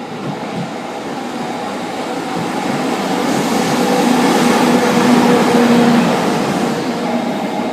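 JR EF64 electric locomotive and its train passing. The rumble and motor hum build to a peak about five seconds in, then ease off.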